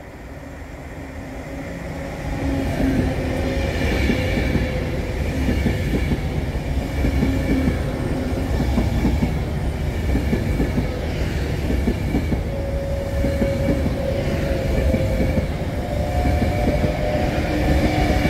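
Passenger train running along the line, growing louder over the first couple of seconds, then a steady rumble of wheels on rail with a few held tones over it.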